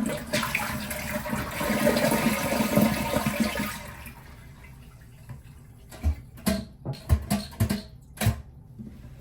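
Toilet flushing with its water supply shut off: a rush of draining water for about four seconds that dies away with no refill, emptying the tank. A few sharp knocks follow near the end.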